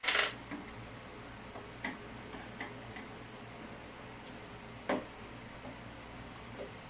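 A few sharp clicks and light knocks over a faint steady low hum: a loud one right at the start and another about five seconds in, with softer ticks between.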